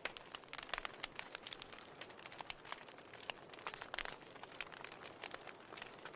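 Fire crackling in a fireplace: irregular sharp pops and snaps over a soft steady hiss, with a louder pop about four seconds in.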